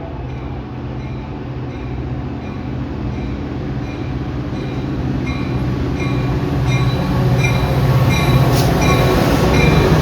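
A train rumbling closer and getting steadily louder, with short ringing ticks from its wheels repeating at a regular beat.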